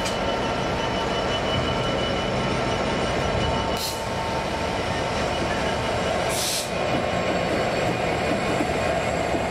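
A train running through a station: a steady rumble of wheels and traction, with two short high-pitched bursts about four and six and a half seconds in.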